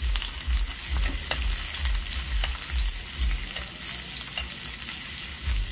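Ginger and garlic sizzling in hot oil in a pan, stirred with a metal spatula that scrapes and clicks against the pan every second or so.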